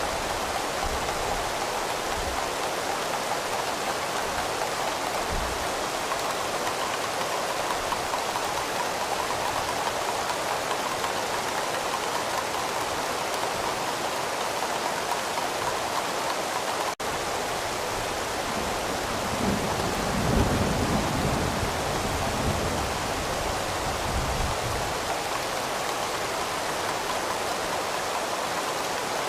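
Steady rain falling, with a low rumble of distant thunder about two-thirds of the way through. The sound drops out for an instant just past the middle.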